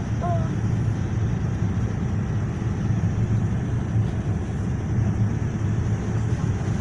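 Steady low rumble of a Boeing 787's engines and airflow, heard inside the passenger cabin.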